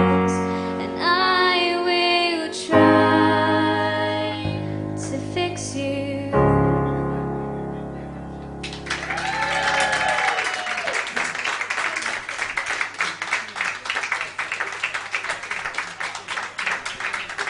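A voice singing over piano accompaniment, ending the song on a held chord, then audience applause that starts about nine seconds in and carries on to the end.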